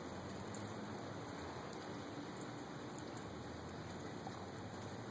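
Steady light rain falling, with faint scattered drop ticks.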